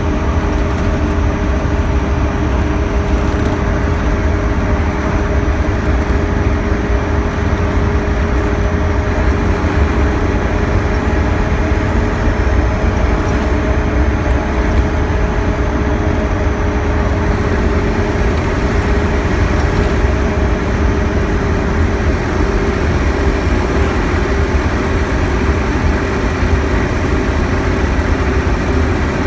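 Diesel engine of a Scania K112CL coach running steadily, with a deep drone and a steady hum.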